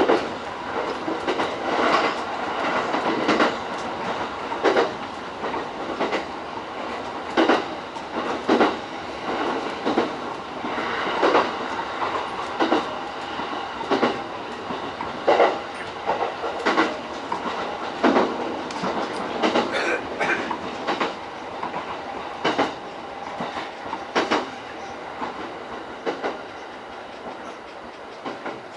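E231 series electric train running on the line, its wheels clacking over rail joints about every one and a half seconds over a steady rumble. The running noise grows quieter near the end.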